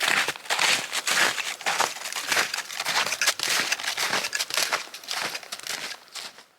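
Footsteps crunching through snow at a steady walking pace, about two to three steps a second, growing fainter near the end.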